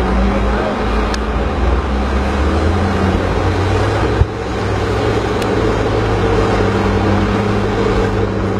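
An engine running steadily with a low hum, and a single brief click about four seconds in.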